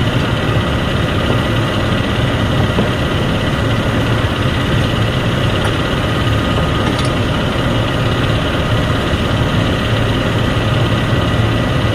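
Heavy diesel engine running steadily at an even idle, a constant low hum with a thin steady whine above it.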